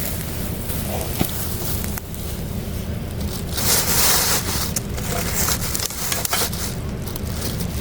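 Wind buffeting the microphone as a steady low rumble, with rustling and scraping from handling, and a louder rustle about four seconds in.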